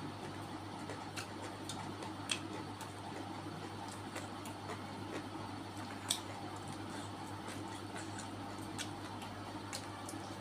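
Close-up eating sounds: scattered sharp mouth clicks and wet smacks of chewing, the two loudest about two seconds and six seconds in, over a steady low hum.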